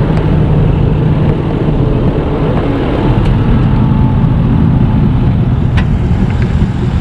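A truck engine running steadily, its pitch rising slightly for a few seconds in the middle, with a faint click near the end.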